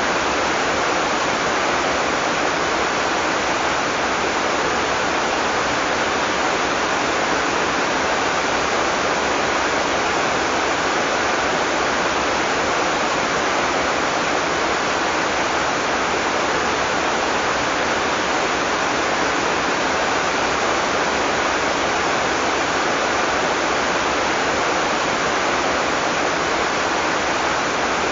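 Heavy tropical rain falling in a steady, unbroken downpour, with no thunder.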